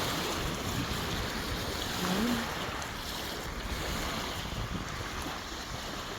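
Wind buffeting the microphone over lake waves lapping, with a brief low rising call about two seconds in.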